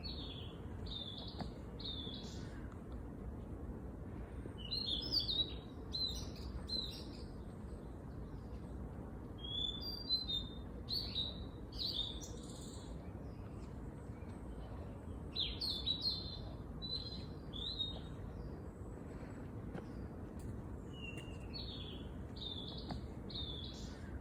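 A songbird singing short phrases of quick, high notes, repeated about every five seconds, over a steady low background noise.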